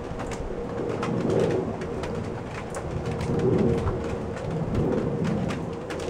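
Rain falling, with scattered sharp ticks of drops hitting nearby surfaces, and a bird cooing in low phrases three times.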